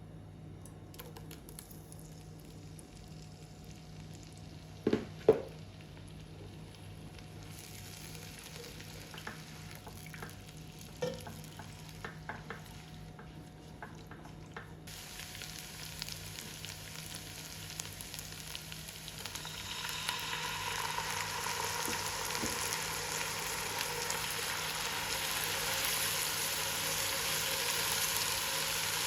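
Food frying in hot oil in a pan. It starts quiet with a couple of sharp knocks about five seconds in and another near the middle, then a sizzle swells up from about two-thirds of the way through and holds steady.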